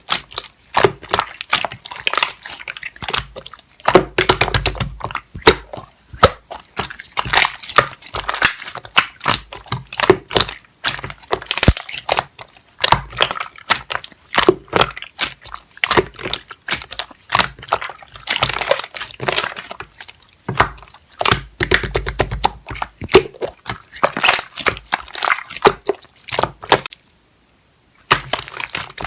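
Clear green slime worked by hand, giving dense wet crackling and popping clicks, with a short pause near the end.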